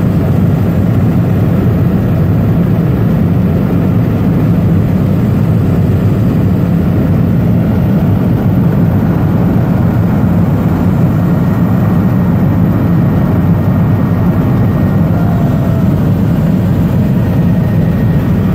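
Helicopter rotor and engine noise heard from inside the cabin in flight, a loud steady drone.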